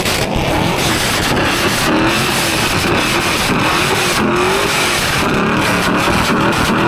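Car engines running and revving, their pitch rising and falling repeatedly over a dense, loud wash of noise.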